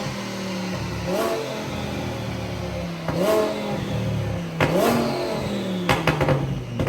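Twin-turbo Audi R8 engine idling and revved in three short blips, each climbing quickly and dropping back to idle. Near the end comes a quick run of sharp cracks.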